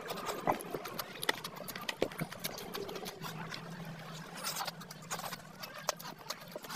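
Close-up wet chewing and lip smacking from a man eating a big mouthful of rice and curry, with many sharp wet clicks, and squelching as his fingers mix rice and curry on a metal plate.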